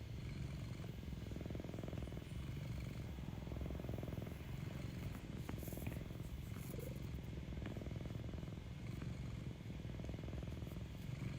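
Domestic cat purring close to the microphone: a steady low rumble that swells and eases with each breath, about once every second and a half.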